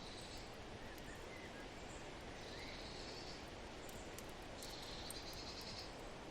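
Forest ambience: a steady wind-like hiss with a high trill three times, each lasting about a second, and a few faint chirps from birds.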